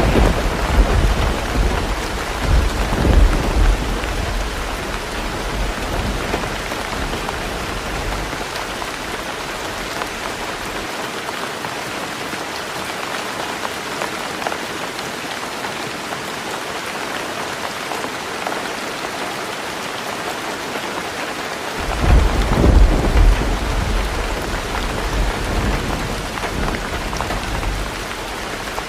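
Heavy rain falling steadily on a tin roof. Thunder rumbles at the start and dies away over several seconds, then a second rumble begins about three-quarters of the way through.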